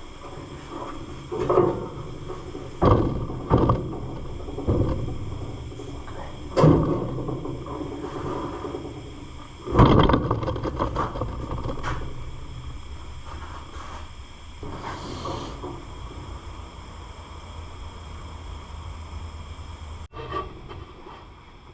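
Heavy metal engine parts being handled: an irregular run of clunks and knocks with scraping between them, the loudest about ten seconds in, over a steady low hum.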